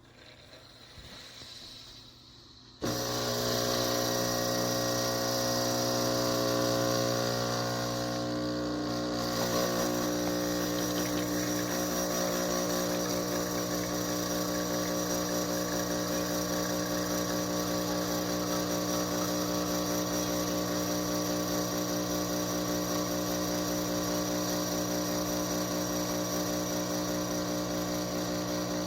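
Breville Barista Touch Impress espresso machine's vibration pump starting about three seconds in and running with a steady hum as it pulls an espresso shot. Its tone shifts slightly near ten seconds.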